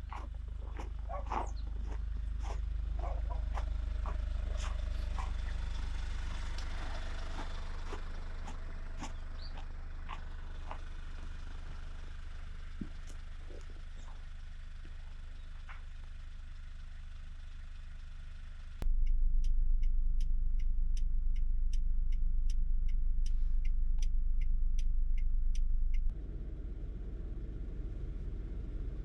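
A vehicle running with a steady low rumble. Scattered clicks come in the first half, and a louder stretch between about 19 and 26 seconds carries an even, regular ticking.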